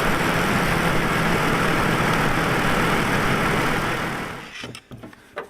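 Chevy Trailblazer 4.2 L straight-six engine running steadily, then shutting off about four seconds in. The engine is misfiring on one cylinder.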